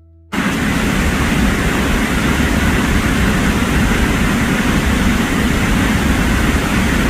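Waterfall: a loud, steady rush of falling water that cuts in sharply just after the start and stops abruptly at the end.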